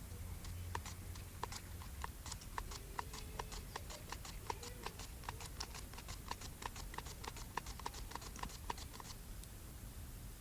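Quick, even knife strokes chopping food, about five a second, with no cutting board under them. The chopping stops about nine seconds in.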